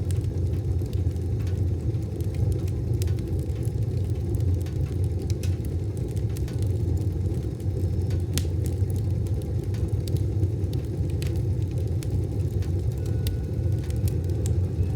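Wood fire burning in a wood stove: a steady low rumble with sparse, sharp crackles and pops at irregular intervals.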